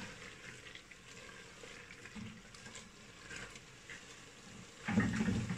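Chicken, radish and spinach curry frying in a clay handi on high heat while being stirred with a spatula: a faint sizzle with soft scraping and stirring sounds, and a louder burst about five seconds in.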